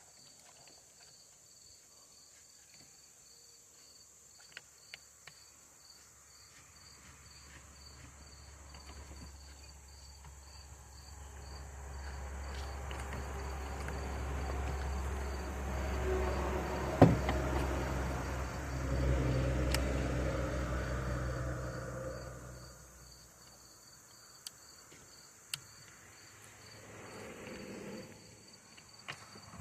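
Crickets chirping steadily in a fast, even pulse. In the middle a vehicle passes, its low engine hum swelling over about ten seconds and then fading away.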